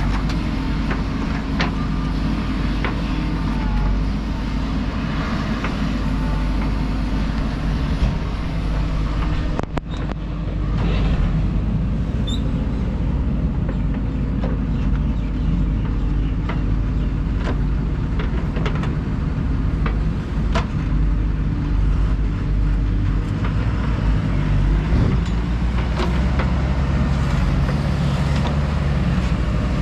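JCB 3DX backhoe loader's diesel engine running steadily, with scattered sharp knocks and clanks. The sound breaks off briefly about ten seconds in.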